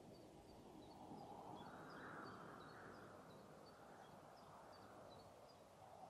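Faint songbird chirping: a quick series of short, high notes over a soft, steady background hiss of woodland air.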